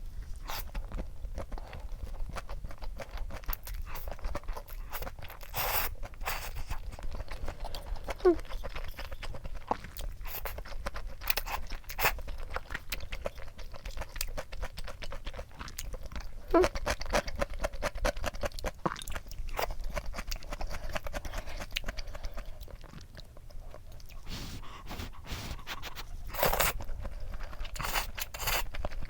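Close-miked eating: a person chewing crunchy food, with irregular crunches and crackles and a few louder sharp clicks.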